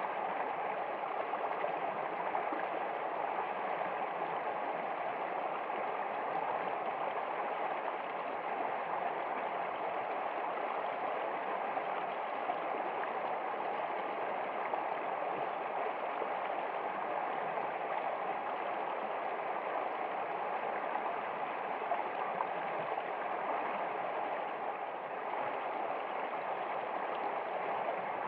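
Running water flowing steadily, an even rushing of a stream.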